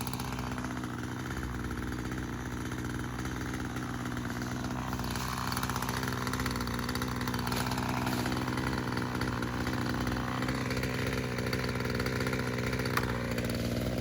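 Echo chainsaw's two-stroke engine idling steadily between cuts, its level rising slightly partway through.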